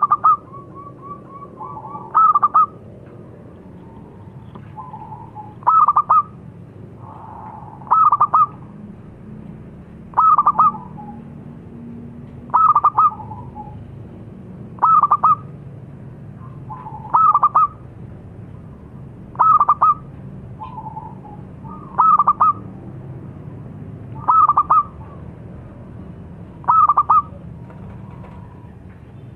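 Zebra dove (local perkutut) cooing: a short burst of quick notes repeated about every two and a half seconds, with softer, lower notes between the bursts.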